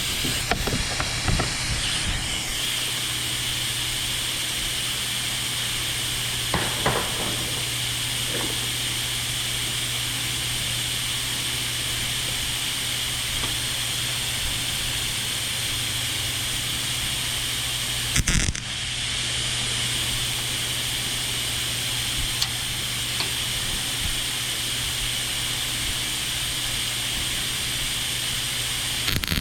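Gas-shielded arc welder welding sheet steel: a steady sizzling hiss with a low electrical hum, which stops briefly about 18 seconds in and starts again.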